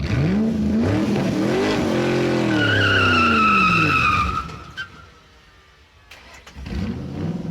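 An engine-like sound whose pitch rises and then falls away over about four seconds, with a high whine partway through; after a quiet gap, a shorter rising engine note comes in near the end.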